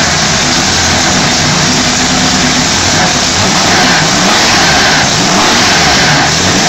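Large multi-cylinder engine of a vintage Bugatti racing car running loudly just after being started, its revs rising and falling unevenly.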